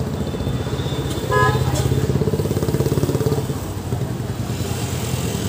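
Street traffic with a motorcycle engine running close by, its low pulsing growing louder about a second and a half in, when a brief high-pitched tone also sounds.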